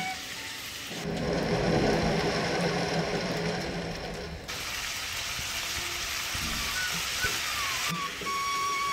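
Prawns in ghee-roast masala sizzling in a wok with freshly added curry leaves, for a few seconds before cutting off suddenly into a steadier hiss.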